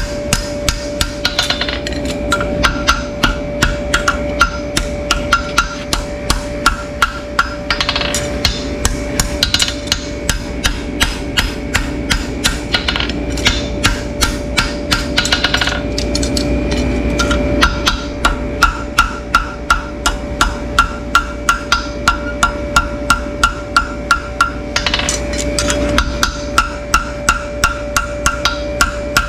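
Rhythmic knocking, about two to three strikes a second, over a steady hum.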